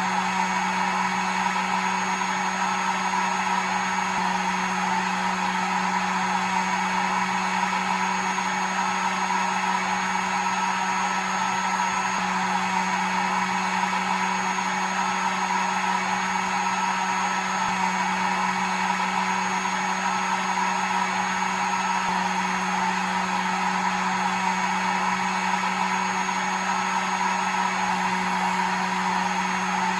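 Hair dryer running steadily: an even rush of blown air over a constant low motor hum, used as white noise for a baby's sleep.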